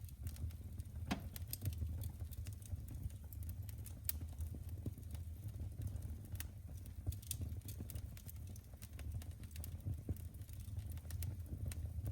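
Fireplace fire crackling: frequent small, irregular pops and snaps over a steady low rumble.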